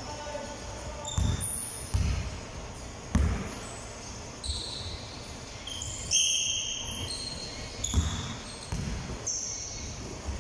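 Basketball practice on an indoor court: a ball bouncing in irregular heavy thumps, about eight in all, mixed with short high squeaks of shoes on the floor.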